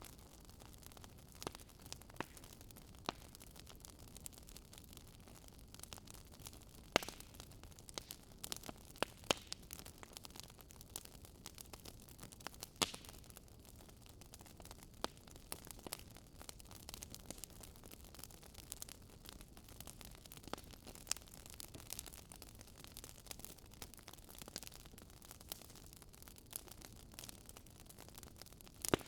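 Fireplace fire crackling faintly: irregular sharp pops and snaps over a steady soft hiss.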